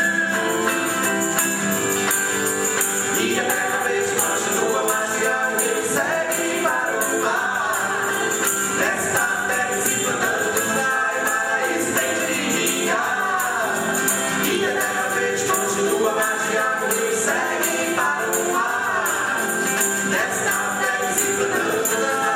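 A song from a children's stage musical: several voices singing together over a tambourine shaken in a steady rhythm.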